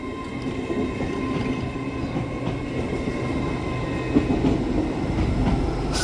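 A pair of coupled LNER Class 801 Azuma trains pulling away from the platform. A steady whine sits over the rumble of wheels on rail, and the sound grows a little louder as the train gathers pace.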